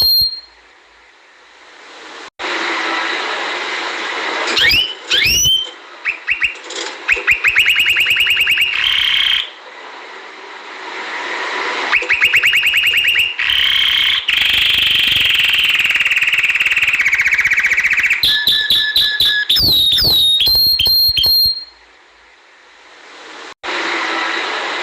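Domestic canary singing: rapid trills, held whistled notes and high sweeping glides, over a steady background hiss.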